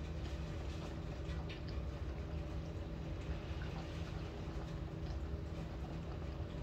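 Typhoon rain heard from inside a building: a steady wash of rain with scattered drips and small taps, over a steady low hum.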